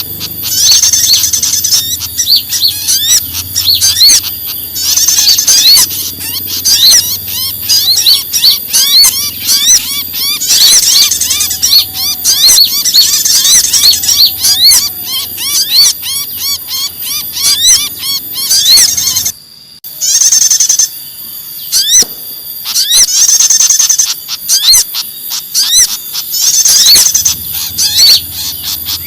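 A mixed bird-lure recording of small songbirds giving agitated, excited calls: sogon, konin, bar-winged prinia and pied fantail, the 'ribut kejepit' calls used to draw in small birds. Dense, rapid high chirps with short trills recurring every few seconds, and a brief break about two-thirds through.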